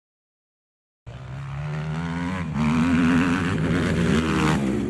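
Silence for about a second, then a motocross bike engine cuts in abruptly, running and revving with a wavering pitch. It grows louder partway through.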